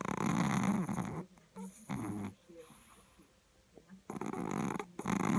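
Chihuahua snoring in its sleep: a long snore, a short one about two seconds in, then two more close together near the end.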